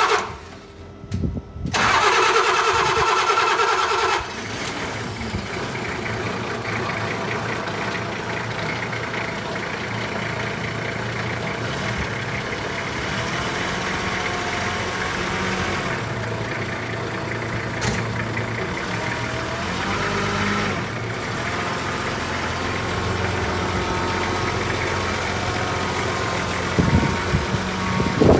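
Nissan 45 truck engine cranked by the starter motor for about two seconds until it catches, then idling steadily, with slight pitch changes in the middle. A couple of knocks near the end.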